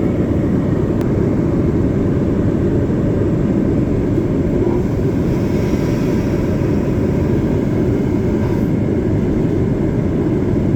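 Steady low roar of an airliner's engines and rushing air, heard inside the cabin.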